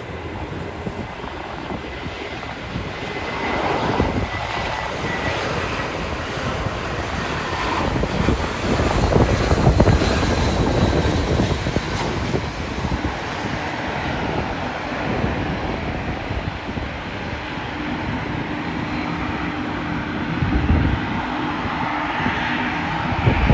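Airbus A320 jet airliner landing: a broad engine roar with a faint whine that swells to its loudest about a third of the way in as the jet passes, then carries on more evenly.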